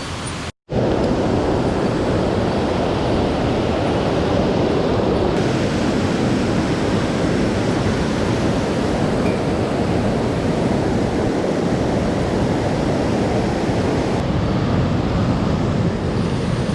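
Rushing whitewater of a mountain stream, a steady loud wash of water close by. It drops out for a moment just after the start and comes back louder.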